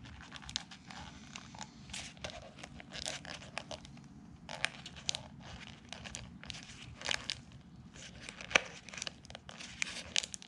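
Used synthetic-media cartridge oil filter being handled and pulled apart by hand: irregular crinkling, crackling and tearing of the pleated filter media as it is opened to check for metal particles.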